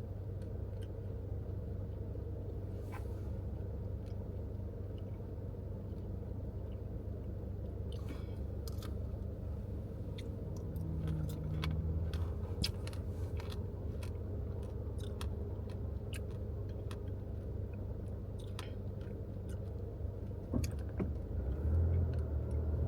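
Steady low hum of a car's cabin while it sits idling in stopped traffic, with scattered small clicks and crunches of someone chewing.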